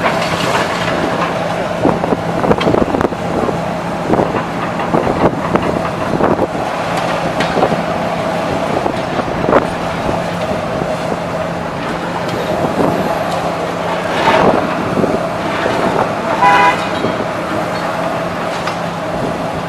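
Demolition machinery working: a steady engine drone with repeated crunching and knocking of rubble, and a brief horn-like tone about three seconds before the end.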